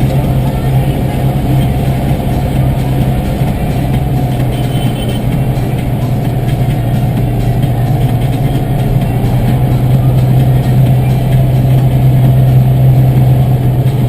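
Tractor's diesel engine running steadily under way, a loud, even low drone.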